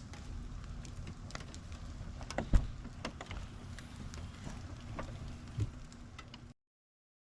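Rain falling, with scattered sharp drops hitting close by over a steady low rumble; one heavy drop lands about two and a half seconds in and another near the end. The sound cuts off suddenly about six and a half seconds in.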